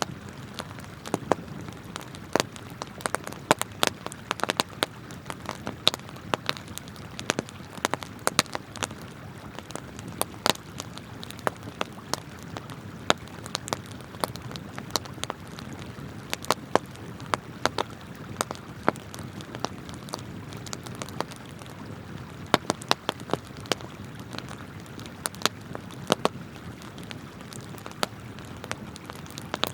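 Wood campfire crackling, with frequent sharp pops at irregular intervals, over the steady rush of flowing river water.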